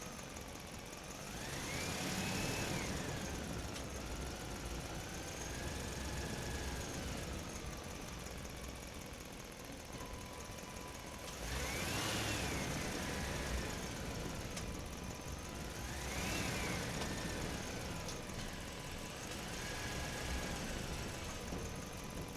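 A motor whining, its pitch and loudness swelling up and falling back three times, over a steady running noise, with a thin steady tone from about halfway through.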